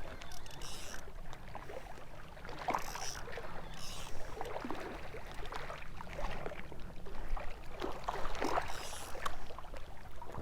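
Irregular water splashing at the shoreline while a hooked smallmouth bass is played in, with a few brief hissy rushes of spray.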